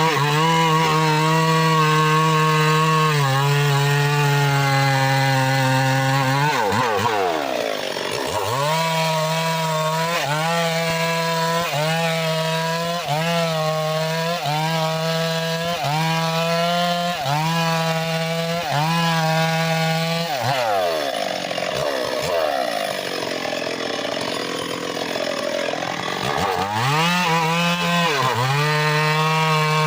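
Mahogany being sawn with an engine-powered saw, its small engine running at high revs. In the middle the engine note dips briefly about once a second as the cut loads it. Later it sags and turns rough for several seconds under heavy load before revving back up.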